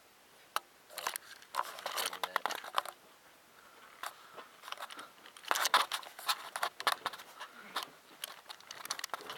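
Irregular crinkling and crackling, like something being handled or crumpled close to the microphone. It comes in spells: the first starts about half a second in, and a louder one comes at about five and a half seconds.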